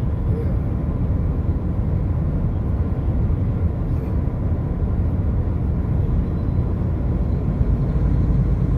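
Steady low rumble of a car driving at highway speed, road and engine noise heard inside the vehicle.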